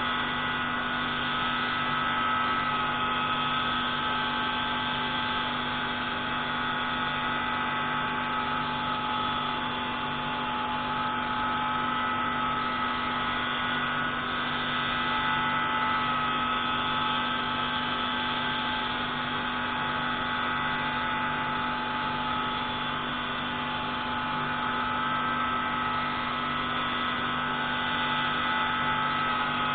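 Pneumatic grinding tool running steadily while grinding the intake valve of a MAK 601C marine engine: a constant whine of several steady tones over an even hiss, swelling slightly now and then.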